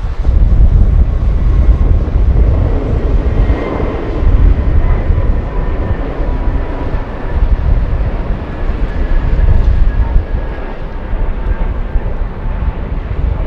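Jet airliner's engines passing, a steady whine over a loud, heavy rumble, swelling about three to four seconds in.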